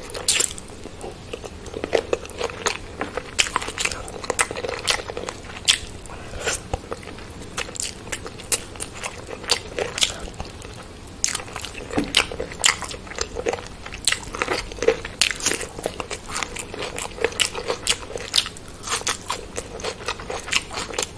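Close-miked eating sounds of chicken biryani and chicken leg pieces eaten by hand: chewing and biting, with many short sharp clicks, several a second.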